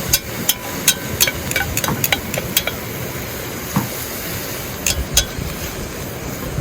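Food cooking over a wood campfire: sharp, irregular pops and crackles over a steady sizzling hiss. A quick run of pops comes in the first couple of seconds, and two more come about five seconds in.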